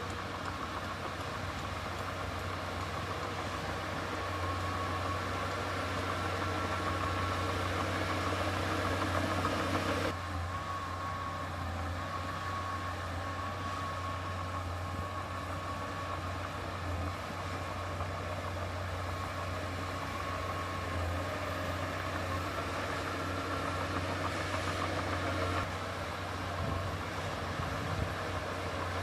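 Heavy earthmoving machine's diesel engine running steadily with a constant low hum. The higher part of the sound drops abruptly about ten seconds in, then carries on steadily.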